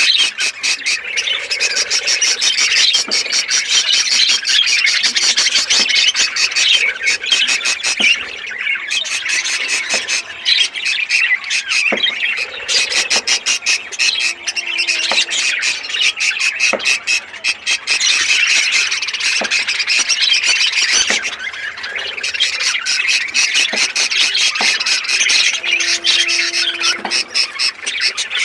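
A flock of budgerigars chattering and squawking all at once: a dense, unbroken wash of high chirps and screeches.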